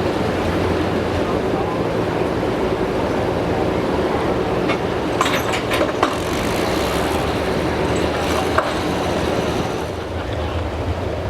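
A vehicle engine running steadily with a low, even drone, with a few sharp clicks about five to six seconds in and a slight drop in level near the end.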